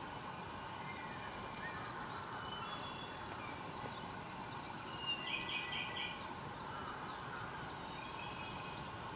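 Wild birds calling in mixed chorus: scattered short calls and trills, the loudest a quick run of repeated notes about five seconds in, over a steady background hum.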